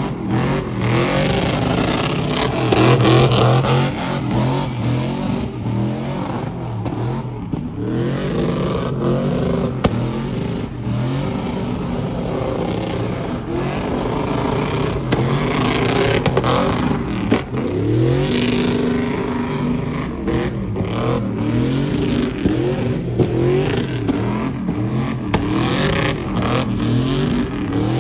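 Several truck engines revving over and over, their pitches rising and falling and overlapping one another, loudest about three seconds in.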